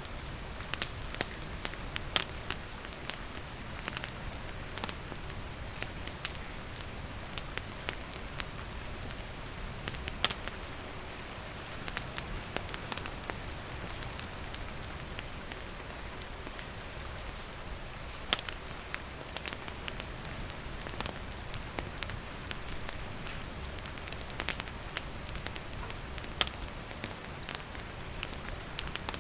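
Steady rain falling, mixed with a wood fire crackling in scattered sharp pops.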